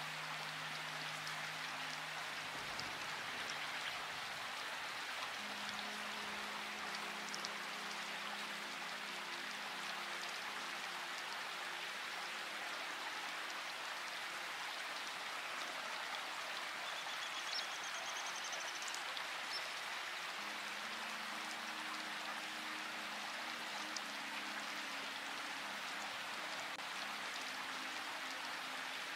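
Steady rain falling, with soft held low chords of ambient music underneath that shift every few seconds. A brief high chirp comes about two-thirds of the way through.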